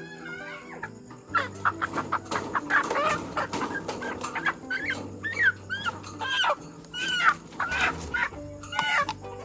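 Chickens clucking over and over in short calls that rise and fall in pitch, starting about a second in, with background music underneath.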